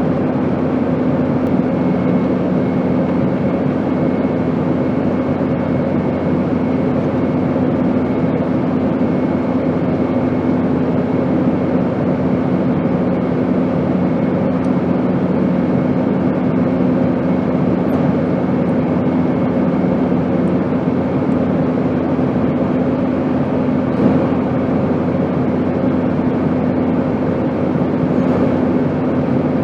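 Airplane noise: a steady, unchanging rushing drone with a constant low hum under it.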